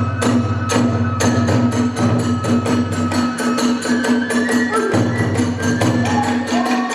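Kagura ensemble music: a fast, even beat of drums and small hand cymbals under a held flute melody that steps up in pitch after the middle.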